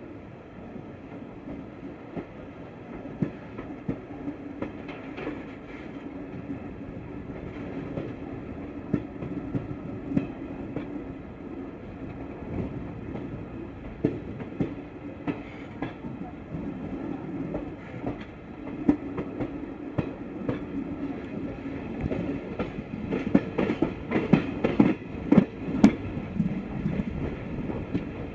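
Passenger train coach running on broad-gauge track: steady rumble and hum with wheels clicking over rail joints. The clatter grows louder and more frequent in the last few seconds.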